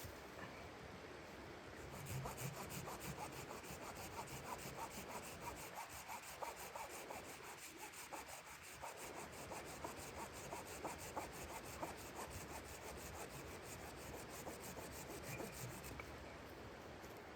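Saw cutting through wood with repeated back-and-forth strokes, starting about two seconds in and stopping near the end.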